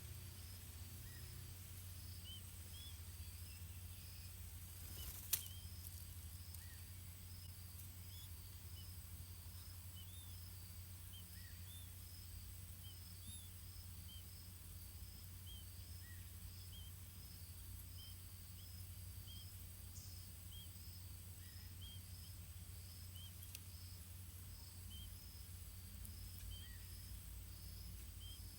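Faint outdoor ambience: an insect chirping in a steady fast pulse over a low hum, with scattered short high chirps and a single sharp click about five seconds in.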